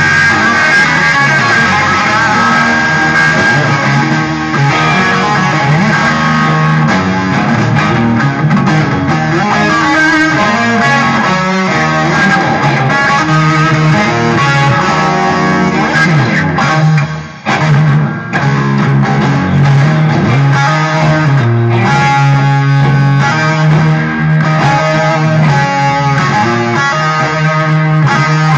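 Electric guitar playing rock music over a bass line; the sound dips out for a moment about two-thirds of the way through.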